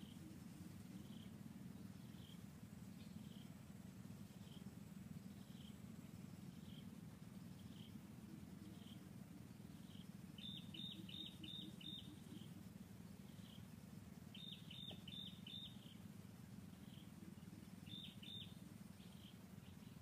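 Faint high chirping from a small bird: a soft chirp about twice a second, with three quicker runs of louder chirps, about five in the middle, then four or five, then two near the end. A low steady rumble lies underneath.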